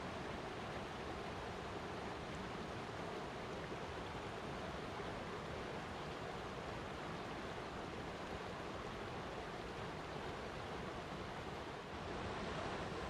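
Flowing water rushing steadily, an even continuous noise with a brief slight dip and swell near the end.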